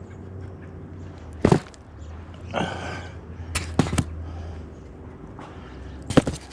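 A handful of sharp knocks and clicks: one about a second and a half in, two close together near four seconds, and one near the end, with a brief rustle between them over a low steady hum.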